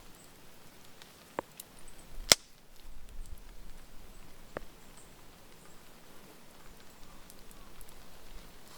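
A few sharp cracks against a quiet background, one much louder about two seconds in and fainter ones before and after it.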